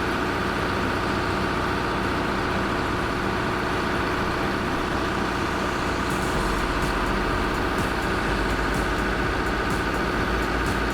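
Heavy diesel engine of construction machinery running steadily at a constant speed, with faint light clicking in the second half.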